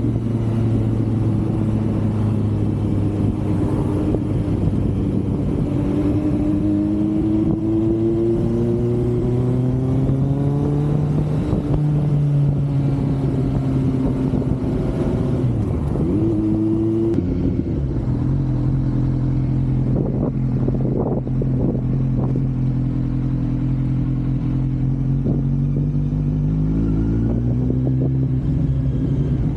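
Kawasaki Z900's inline-four engine running under way, its pitch climbing and dropping as the bike accelerates, changes gear and eases off, with a dip about sixteen seconds in. Wind buffeting on the microphone runs underneath.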